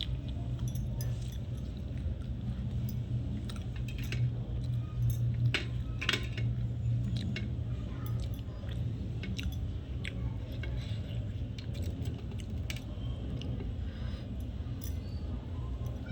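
Close-miked eating sounds: chewing with scattered small clicks and clinks as roti and sabzi are eaten by hand, over a steady low hum.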